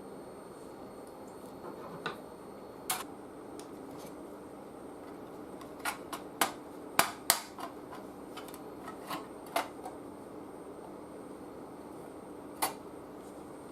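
Scattered sharp clicks and knocks, about a dozen at irregular intervals, from hard parts and tools being handled on a workbench, over a faint steady hum.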